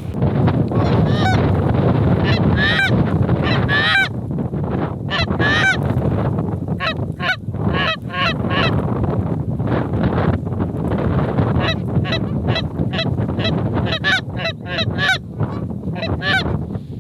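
Many geese honking, a dense run of short, overlapping honks, over a steady low rumble of wind on the microphone.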